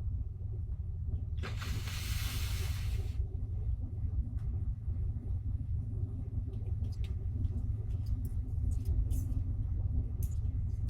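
Steady low rumble of a car, with a hiss lasting about two seconds near the start and a few faint clicks later on.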